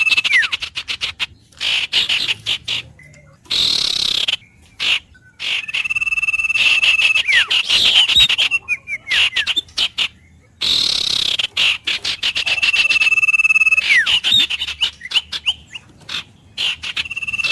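A songbird singing the same phrase over and over, every five or six seconds: a rapid clicking trill, a held high whistle, then quick downward slurred notes. Two short hissy bursts come between phrases, about four seconds in and again about eleven seconds in.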